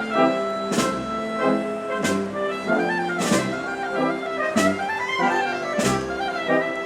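A Spanish wind band (banda de música) playing a processional march. Brass and woodwinds carry the melody, and a cymbal crash with a bass drum stroke lands about every 1.3 seconds.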